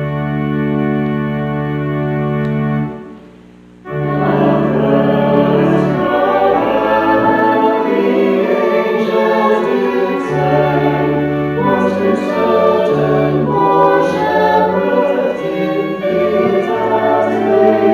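Hymn music, organ-like: one chord held steady for about three seconds, then after a short break the tune starts and carries on.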